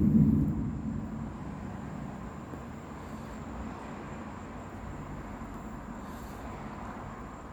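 Thunder rumbling, loudest at the start and dying away over the first second or two into a steady low background rumble.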